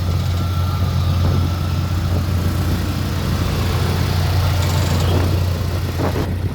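Truck engine running steadily with an even low drone, not revving.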